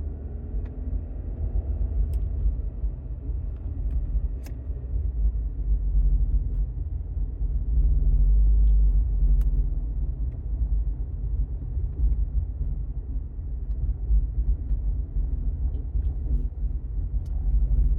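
Exhaust drone from a 2022 Subaru Outback Touring XT's turbocharged 2.4-litre flat-four with 2018 STI mufflers, heard inside the cabin while driving: a deep, steady hum under road rumble that swells louder around the middle. The owner finds this drone worst at low revs, around 1200 to 1500 rpm.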